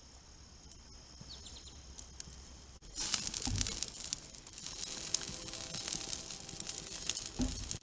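Insects chirping steadily and faintly. About three seconds in, this switches suddenly to a louder, dense crackling and sizzling of a campfire, with sharp pops.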